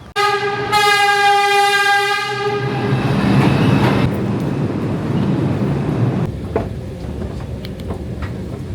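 A single steady horn blast of about two seconds over loud rumbling noise. The rumbling goes on after the horn stops and eases off about six seconds in.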